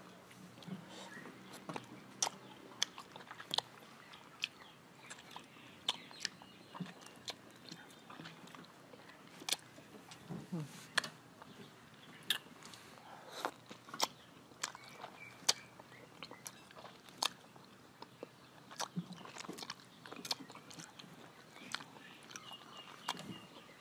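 Close-up biting and chewing of firm, green-skinned mango slices: irregular crisp crunches and mouth clicks.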